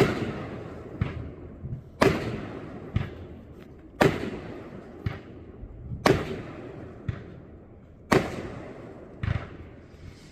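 Backyard consumer fireworks going off in a steady sequence: a loud bang about every two seconds, each trailing away slowly, with smaller thumps between them.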